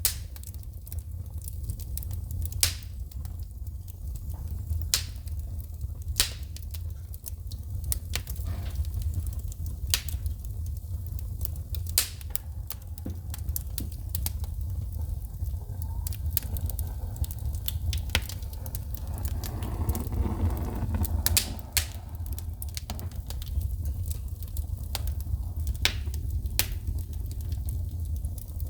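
Wood fire burning in a fireplace: a steady low rumble of flames with sharp, irregular crackles and pops of sparks every second or two, and a brief swell of rushing noise about two-thirds of the way through.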